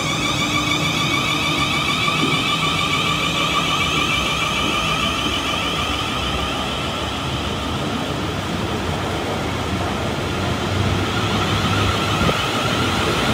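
South Western Railway Class 450 Desiro electric multiple unit rolling past along the platform: a steady rumble of wheels on rail with a high electric traction whine over it. The whine's pitch dips, then climbs again in the last few seconds.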